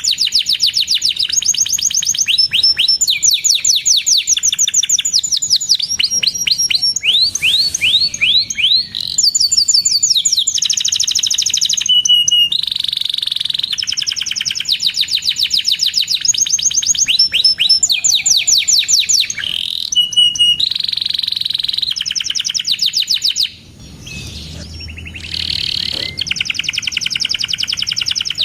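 Domestic canary singing continuously in long, rapid trills and repeated chirps, its song switching between fast rolling phrases and sharper single notes, with a short break about three-quarters of the way through.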